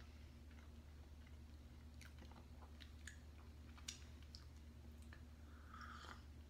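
Faint chewing with small wet mouth clicks, over a steady low electrical hum. Near the end there is a short soft sip from a mug.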